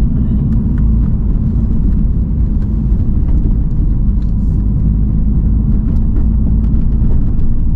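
Steady low rumble of road and engine noise inside a moving Mini's cabin.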